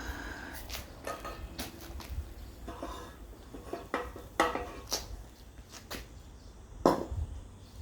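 Scattered metallic clinks and knocks, as of metal pieces being handled, with a single sharp, louder knock near the end.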